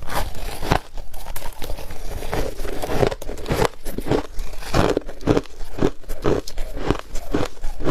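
Hard ice being bitten and chewed close to the microphone: a steady run of sharp crunches, about two a second.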